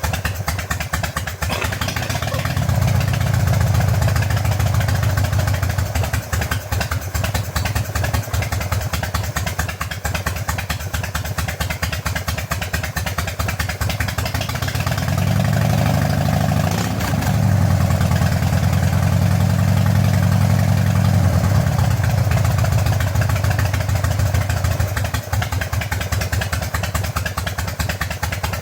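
Harley-Davidson Evolution V-twin engine running at idle on freshly changed engine oil. The revs rise twice for a few seconds, a couple of seconds in and again around the middle, then settle back.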